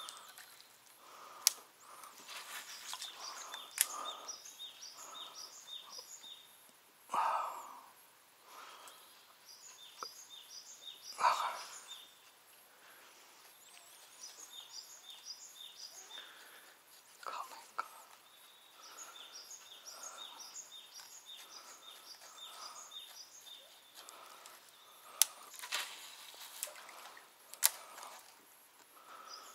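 Quiet lakeside outdoor sound: a bird repeats runs of short, high chirps over and over. A few sharp clicks and two brief louder noises stand out about a quarter and a third of the way through.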